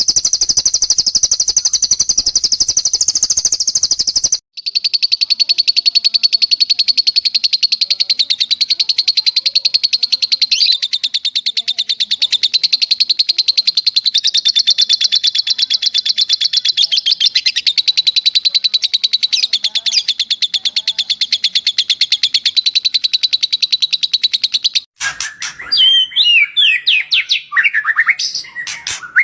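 Recorded songbird song spliced into a training track: a long, rapid, high-pitched trill cuts off abruptly about four seconds in and is replaced by another long rapid trill lasting some twenty seconds. Near the end it switches to varied whistled phrases that slide up and down.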